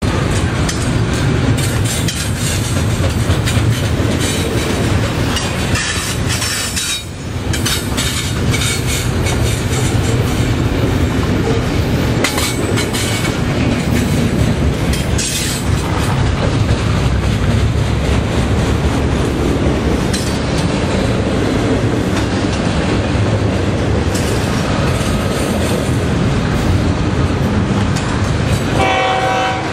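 Double-stack intermodal container train rolling past close by, a steady rumble with the clickety-clack of wheels over the rail joints. About a second before the end, a short horn sounds from an approaching locomotive.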